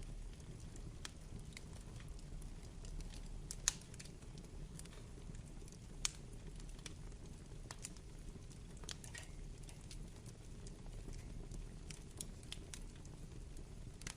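Burning wood fire: a steady low rumble of flame with irregular crackles and pops from the logs, two sharper snaps about four and six seconds in.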